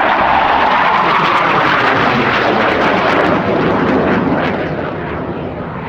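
Alenia Aermacchi M-346 Master jet trainer's twin turbofans at high power as it passes at over 300 knots: a loud, broad rush of jet noise that eases off over the last couple of seconds.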